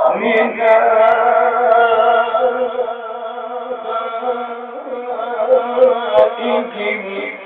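A man's voice in melodic Quran recitation (tajwid), drawing out one long phrase with wavering ornaments for about seven seconds before it stops near the end.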